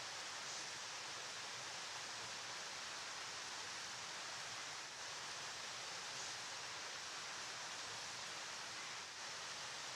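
River water flowing, a steady, unbroken rushing hiss, brightest in the upper range.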